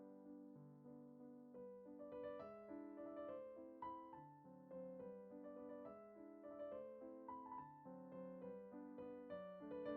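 Soft background piano music playing a gentle melody over chords, growing busier about a second and a half in.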